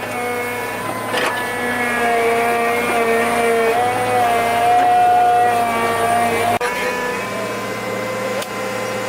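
A small engine running at a steady speed, its pitch stepping slightly up or down a few times.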